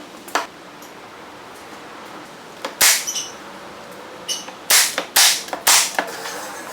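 A series of about seven sharp, loud cracks from work on old barn-wood posts: a single one about half a second in, a loud one near three seconds, then a quick run of five between four and six seconds.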